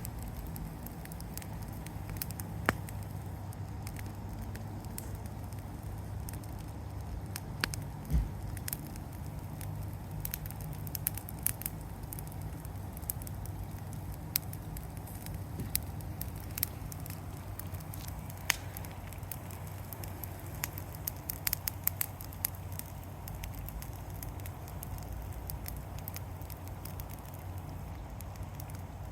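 Yard-debris burn pile crackling and popping with irregular sharp snaps, over a steady low rumble.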